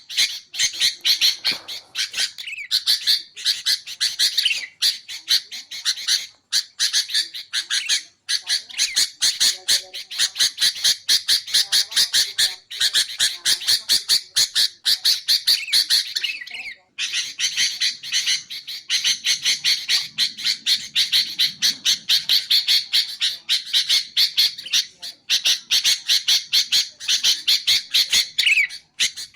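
Sooty-headed bulbul (kutilang) chattering: rapid, repeated calls in long bouts broken by a few short pauses.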